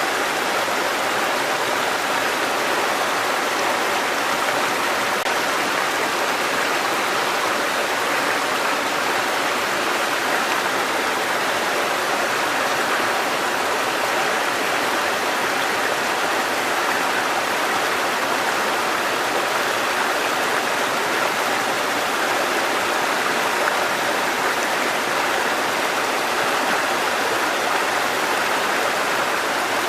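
Mountain stream water cascading over rocks: a steady, even rush of water.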